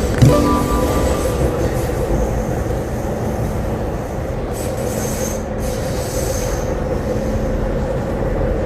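An MTR C-Train electric multiple unit heard from inside the car, running through a station without stopping, with steady wheel-on-rail rumble. There is a single knock about a quarter second in and a faint high wheel squeal around the middle.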